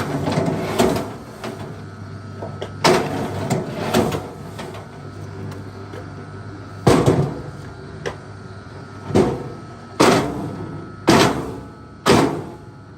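Axe blows chopping into wood: about eight sharp, separate strikes at irregular intervals.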